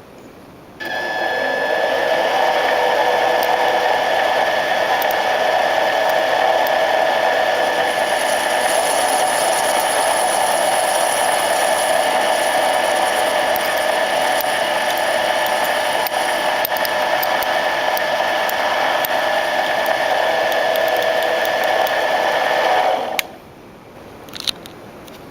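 Boddo Mills 0.75 cc model diesel engine with a homemade contra-piston, running steadily at high speed with a high, buzzing whine. The sound comes in abruptly about a second in and cuts off abruptly near the end.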